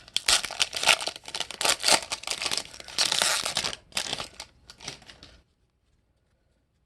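Foil wrapper of a Topps Chrome trading card pack crinkling as it is torn open and pulled off the cards, in dense rapid crackles that stop abruptly about five seconds in.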